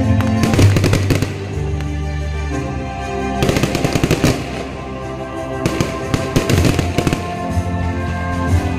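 Fireworks crackling in three rapid clusters of pops, each about a second long, over loud music with a steady bass line.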